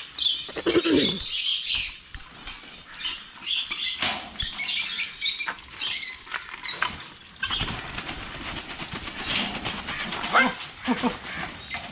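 Frightened aviary birds flapping their wings in a flurry and chirping, with scuffling knocks against the cage. The birds are panicking as they are chased to be caught.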